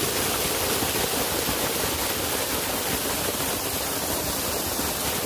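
Steady, even rush of a small waterfall's falling water.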